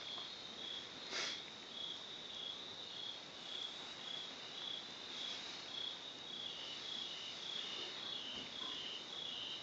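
Crickets chirping in an even rhythm, about two chirps a second, with a second cricket at a slightly lower pitch joining about halfway through. A single faint knock about a second in.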